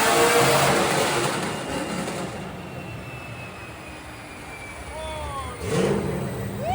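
Drift car engine at high revs, its pitch peaking about half a second in and then falling as it winds down and fades over the next couple of seconds. Short falling tones and a click follow near the end.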